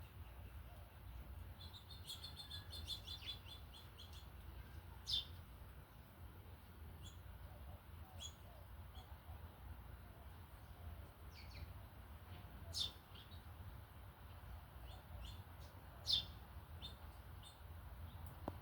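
Wild birds chirping: single short high chirps at irregular intervals, with a quick run of repeated notes about two seconds in, over a low steady rumble.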